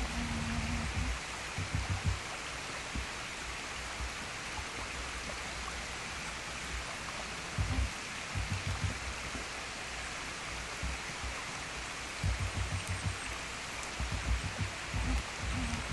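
Steady rushing of a partly frozen waterfall. Low rumbling buffets come and go near the start, about eight seconds in, and through the last few seconds.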